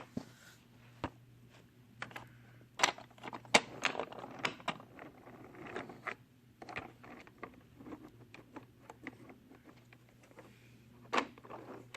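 Irregular clicks and knocks of small hard objects being handled and set down, some in quick runs, over a faint steady low hum.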